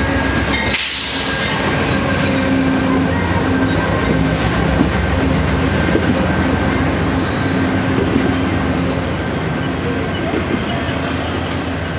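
Amtrak passenger train running past close by: a loud, steady rumble of wheels on rail, with brief high-pitched wheel squeals in the latter half.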